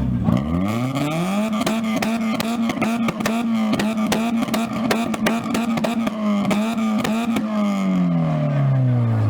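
Car engine revved through its exhaust: the pitch climbs over the first second and a half, holds high and steady for about six seconds with sharp crackles through it, then falls back toward idle near the end.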